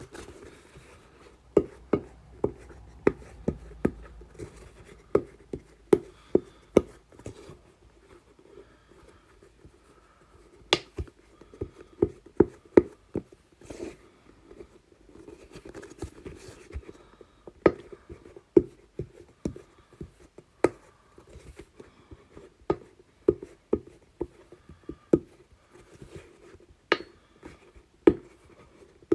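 Silicone bubbles of a rugby-ball-shaped Pop-It fidget toy being pressed in one after another: a long string of soft pops at an uneven pace, one to three a second.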